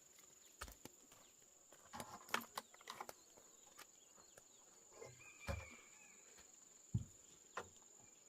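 Scattered light knocks and taps, a few clustered together a couple of seconds in, over a steady high-pitched insect drone.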